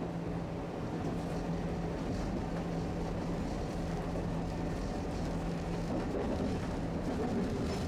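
Tosaden streetcar running on its tracks: a steady low rumble with a constant low hum.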